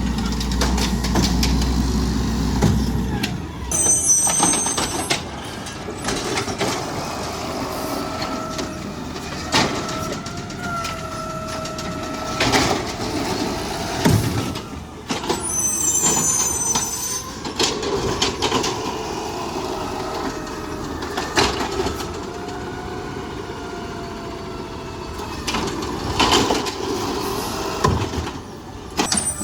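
Garbage truck at work: engine running with a whine that rises and falls, scattered knocks and bangs, and two short high squeals.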